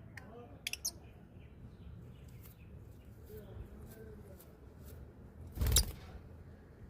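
Small birds giving a few short, high chirps, with a single louder, short scuffle or thump about five and a half seconds in.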